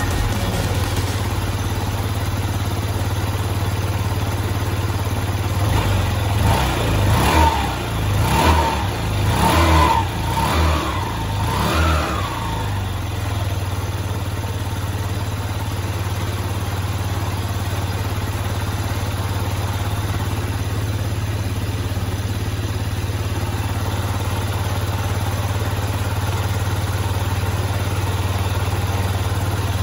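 Freshly rebuilt Yamaha Vox 50 scooter's small four-stroke single-cylinder engine idling steadily. Between about six and twelve seconds in, the throttle is blipped five times in quick succession, then it settles back to idle.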